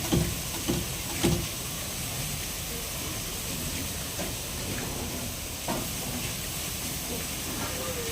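Steady hiss with a few short, low grunts in the first second and a half, typical of pigs in a pen.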